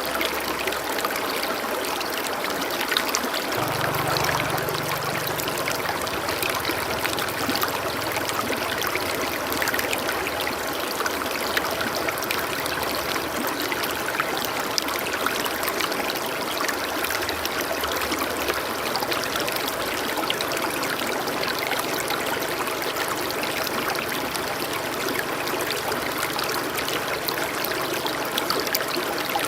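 Steady running water of a stream, trickling and rushing evenly with no breaks.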